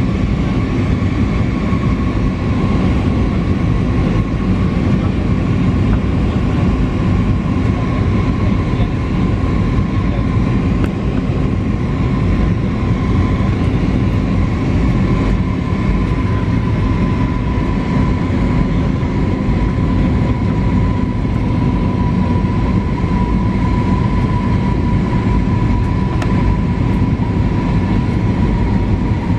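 Airbus A320neo jet noise: a steady, loud rumble with a constant engine whine that drifts slightly lower in pitch.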